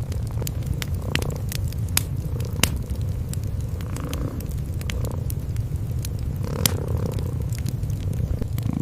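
Cats purring in a steady low rumble, with a wood fire crackling over it in scattered sharp pops.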